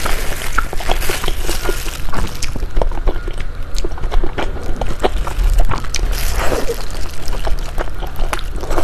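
Eating soup dumplings: wet chewing and slurping of the broth, mixed with rapid crackling and crinkling from a plastic food glove.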